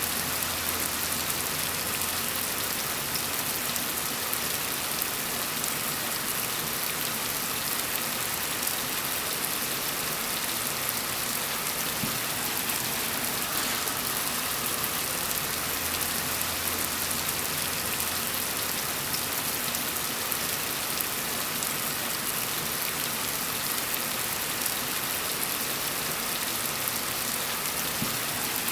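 Steady rain falling on a surface, an even dense hiss with fine drop patter and no change in intensity.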